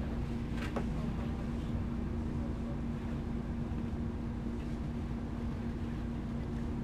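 MAN Lions City G articulated diesel bus running, a steady low rumble with a constant hum.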